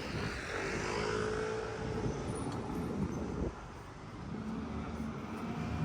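Street traffic: a motor vehicle running past with a steady hum that stops abruptly about three and a half seconds in, then a second, lower vehicle hum.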